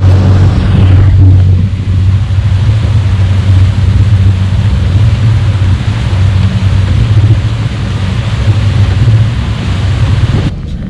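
A boat's engine running steadily under way, with a strong low hum, over a rush of wind and water.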